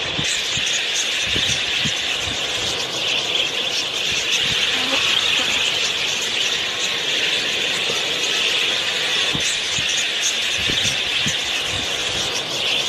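A dense, continuous high-pitched chatter of many small birds calling at once, like a flock of budgerigars or similar small parrots in an aviary.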